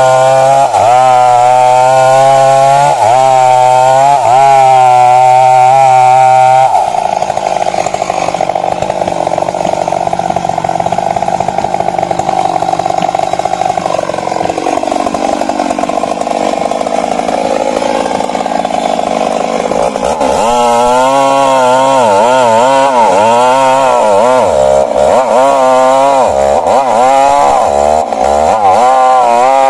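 Stihl MS 382 two-stroke chainsaw running at high revs and cutting into wood, its pitch dipping and recovering again and again as the chain loads. About a quarter of the way in the sound turns quieter and less clear, and its pitch sinks midway. About two-thirds in the saw comes back in strongly, bogging and recovering repeatedly.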